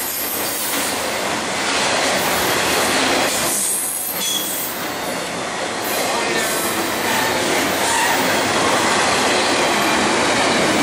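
A BNSF double-stack container train's cars rolling past: a steady rush and rumble of steel wheels on rail, with a brief high wheel squeal about four seconds in.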